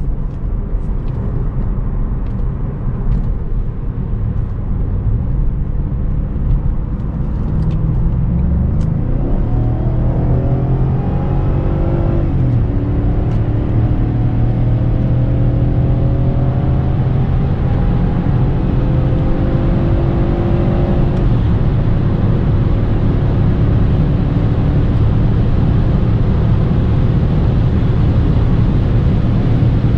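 BMW E39 540i's V8 under hard acceleration: a steady drone at first, then about eight seconds in the engine note climbs, falls back at an upshift about twelve seconds in, climbs again through the next gear, and shifts once more about twenty-one seconds in before running on at a steady high note. Tyre and wind noise run underneath.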